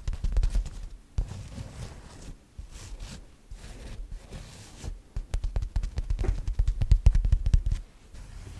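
Close-up ASMR handling sounds on the microphone: soft low thumps with many small clicks and crackles, denser and louder in the second half.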